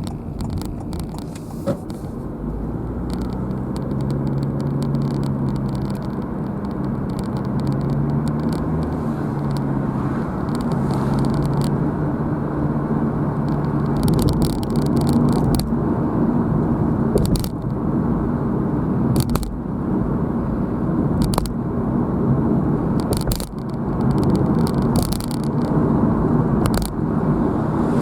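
Car driving on the road: steady engine hum and tyre noise, heard from inside the car, with scattered small rattles and clicks. The engine note rises in pitch about halfway through as the car picks up speed.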